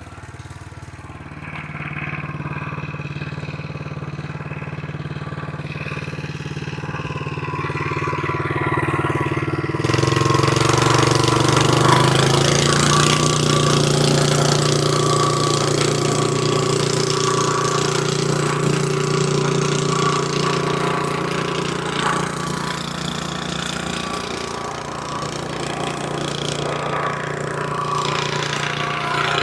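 The 78.5cc gas engine of a VEVOR plate compactor running steadily at a low speed. About ten seconds in it is throttled up and gets much louder, its pitch rising slightly, with a broad harsh noise added as the vibrating plate works the stone.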